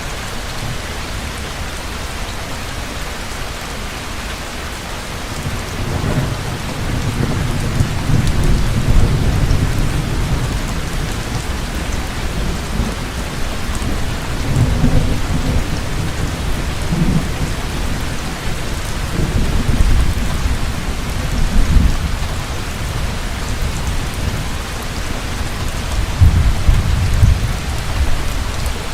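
Heavy rain falling steadily with a constant hiss, and thunder rolling low and deep in several long rumbles: the first swelling about six seconds in, others around the middle and near the end.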